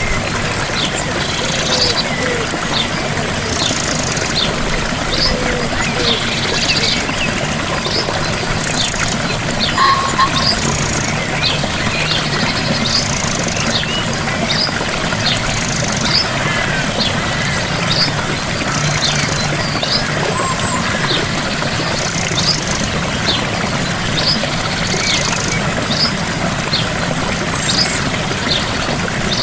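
Gentle waterfall: water falling and splashing in a steady rush. Birds chirp over it throughout, short quick high notes every second or two, with an occasional brief trill.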